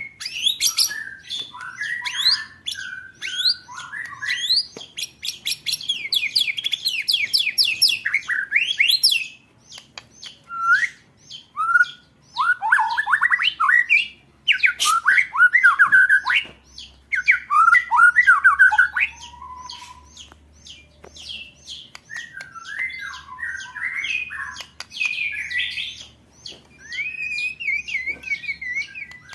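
Songbird song of fast rolling trills and harsh rattling chatter, strings of rapid repeated notes broken by brief pauses: the 'roll tembakan' rapid-fire phrases used as a master recording to train competition songbirds.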